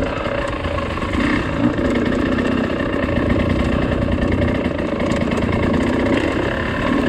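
Dirt bike engine running steadily on the trail, its pitch lifting briefly with the throttle about a second in and again near the end, over a low rumble.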